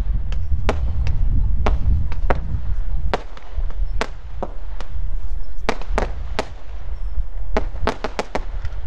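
Firework display going off, with a quick irregular run of sharp bangs and cracks, some close together in clusters, over a steady low rumble.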